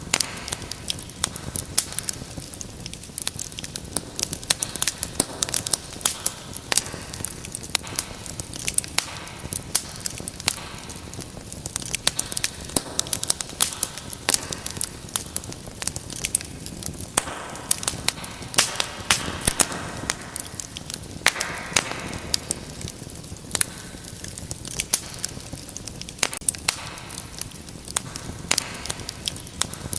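Wood fire in a fireplace crackling: a steady low hiss with frequent sharp, irregular pops and snaps.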